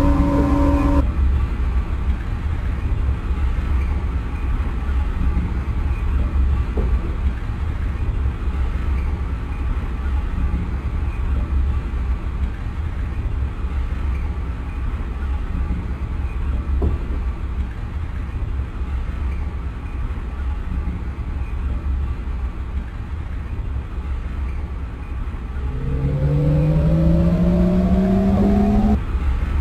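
Lisbon Metro ML90 train running on the line, a loud steady low rumble of wheels on rails. A steady motor tone cuts off about a second in. Near the end a whine of several tones rises in pitch as the train's traction motors pull it faster, then cuts off suddenly.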